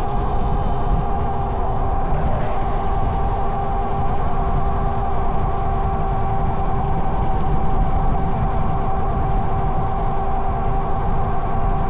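Modified Razor electric bike's motor whining at a steady pitch at cruising speed, with wind rumbling on the microphone.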